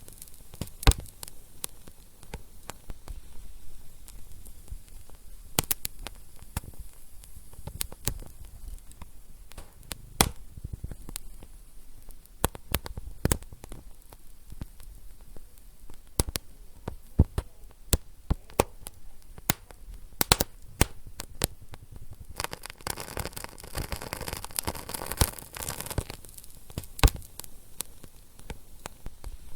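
Wood fire burning in a fireplace, crackling with irregular sharp pops over a low steady hiss. A stretch of louder hissing comes about three-quarters of the way through.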